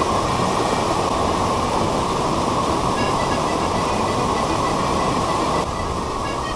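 Steady roar of rushing water, with faint short chirps above it; the level drops slightly about five and a half seconds in.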